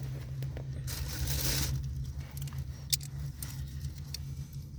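Metal hand tools jingling and clicking as they are handled, with a brief hiss about a second in and one sharp click near the middle, over a steady low hum.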